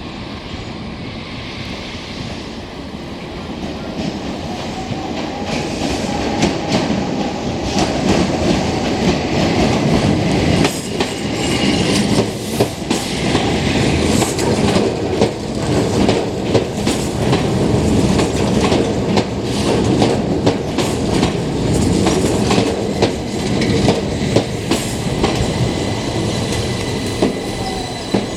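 Keihan Keishin Line electric train running by, growing louder over the first several seconds, with its wheels clicking over rail joints in a long rapid run.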